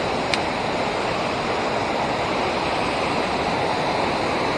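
Steady rush of river water pouring over a dam, with one brief click about a third of a second in.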